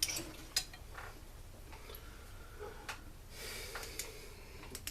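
Scattered light clicks and clinks of the parts of a backpack blower being handled on a workbench, with a brief soft rustle a little past halfway.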